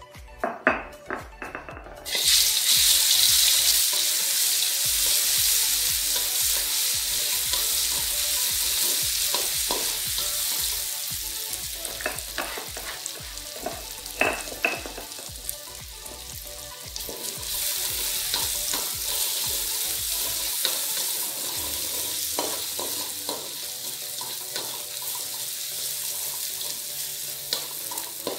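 Ground spice paste hitting hot oil in a wok with a few knocks, then a sudden loud sizzle about two seconds in that carries on as the paste fries. The sizzle eases off in the middle and swells again a little past halfway as the paste is stirred with a spatula, with small scrape clicks.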